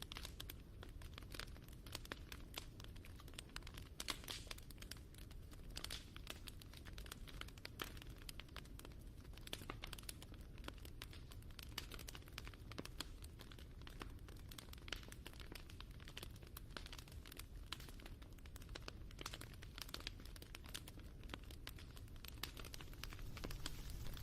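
Wood fire crackling: a dense run of small irregular pops and snaps over a low steady rumble.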